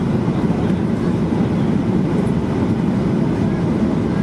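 Steady, even noise inside the cabin of a Boeing 737-800: the jet's CFM56 engines and the rush of air along the fuselage, with no change in pitch or level.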